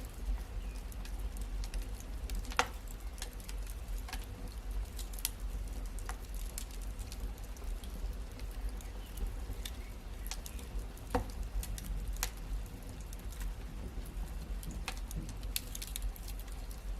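Wood fire crackling, with scattered sharp pops and snaps over a steady low rumble of the flames; the loudest pops come about two and a half seconds in and again about eleven seconds in.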